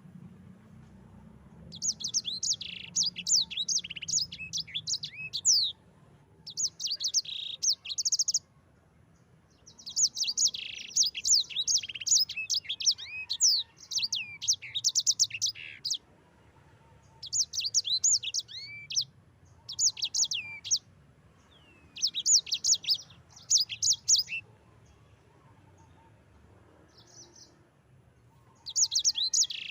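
Sanger songbird singing in repeated high, rapid rolling phrases of fast sweeping notes, each phrase lasting one to several seconds with short pauses between, starting about two seconds in.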